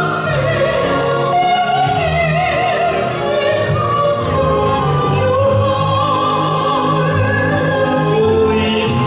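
Live classical-style singing with wide vibrato over an orchestral accompaniment, the voice holding long notes.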